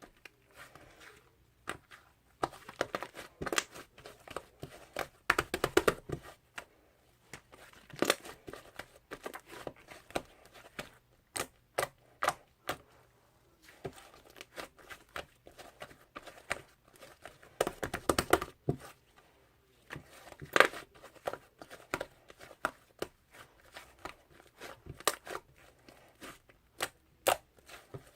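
Hands squishing, poking and stretching a fluffy clay slime, giving irregular sticky clicks and crackles that bunch into short runs of rapid pops several times.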